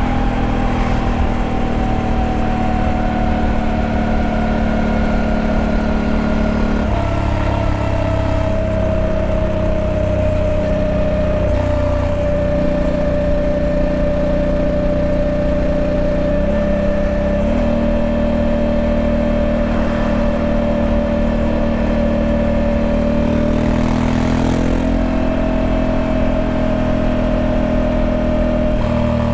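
Honda Africa Twin 1100's parallel-twin engine running steadily, its note changing in steps a few times along the way.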